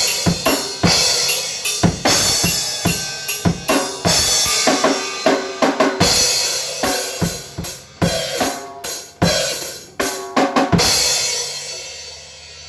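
Drum kit being played in loose, irregular fills of kick, snare and cymbal hits. About eleven seconds in, a final cymbal crash rings out and fades.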